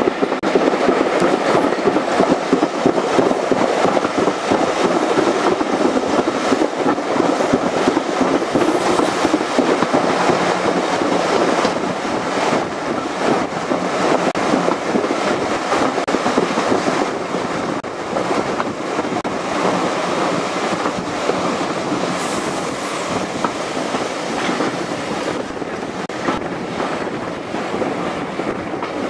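Steam-hauled heritage train coaches running on the track, heard from an open carriage window: steady rumble and clatter of wheels on rail, a little quieter from about halfway through as the train eases. A brief faint high-pitched wheel squeal about three-quarters of the way through.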